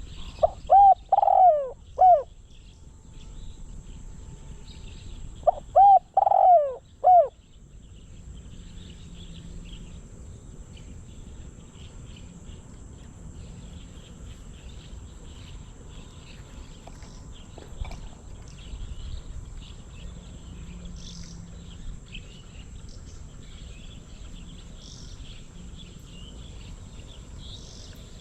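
Spotted dove cooing: two phrases of about four arching notes each, one near the start and one about six seconds in. Faint high chirping of insects or small birds runs behind.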